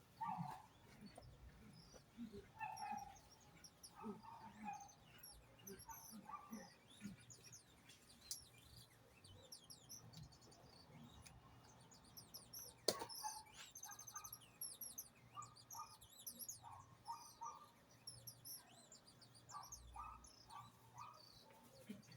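Small birds chirping and twittering faintly, many short quick calls overlapping throughout. A single sharp click about thirteen seconds in.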